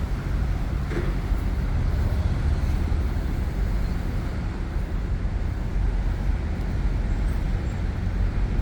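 Steady outdoor rumble with a hiss over it, heaviest in the low end, and a faint click about a second in.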